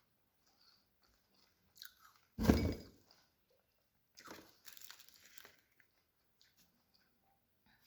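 A person biting into a piece of fruit with one loud crunch about two and a half seconds in, then crunchy chewing.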